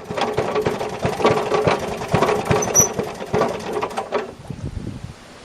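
Maytag Model 92 single-cylinder two-stroke engine on a wringer washer running roughly, firing irregularly, then falling away about four seconds in. Its exhaust is muffled through a bucket of water, which the owner thinks is choking its flow.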